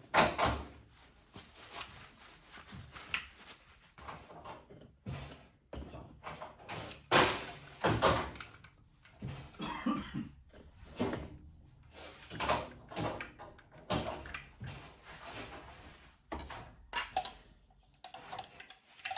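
Irregular clicks, knocks and short scrapes of hard plastic and metal parts being handled and worked on by hand during a coffee machine teardown, with a few louder knocks, the loudest about 7 and 8 seconds in.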